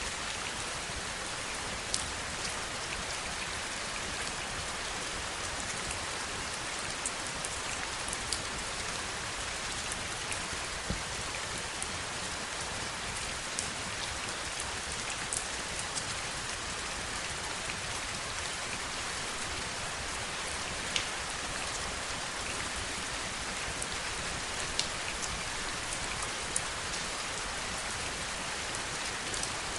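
Heavy rain falling steadily, an even hiss with scattered sharper drop ticks every second or two.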